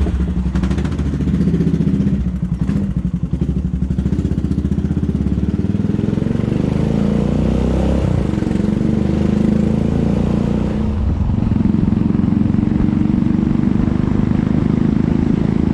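Suzuki GSX250 motorcycle engine running steadily just after being started, its exhaust pulsing evenly, with small shifts in engine speed.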